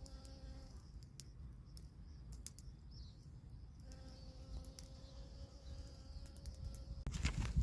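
Faint insects chirping steadily, with scattered light clicks.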